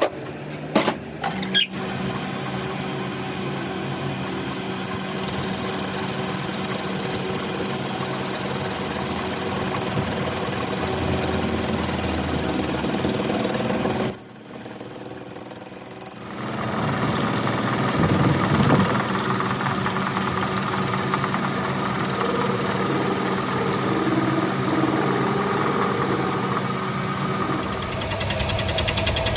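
A power tool running steadily under load, with a few sharp knocks at the very start and a brief drop-out about halfway through before it runs on.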